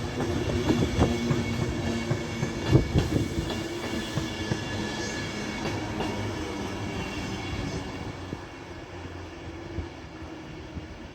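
A train running past, its wheels clicking over rail joints over a steady hum, fading as it moves away.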